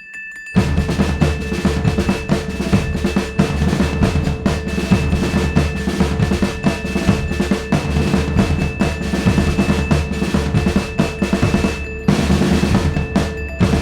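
Fast, continuous drumming that starts suddenly about half a second in, loud and dense with rapid strokes.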